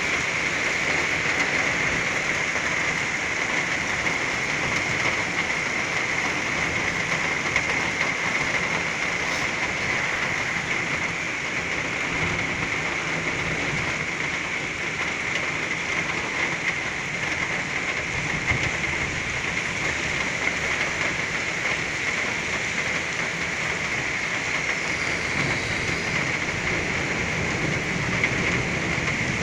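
Heavy rain pouring steadily in a torrential downpour, a dense even hiss, with a low rumble of thunder toward the end.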